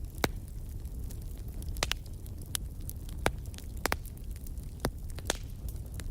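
Wood fire crackling: irregular sharp pops and snaps, about seven of them, over a steady low rumble.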